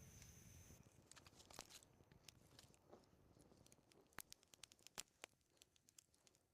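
Faint campfire crackling: many short, sharp, irregular pops and snaps of dry wood burning, growing more frequent in the second half.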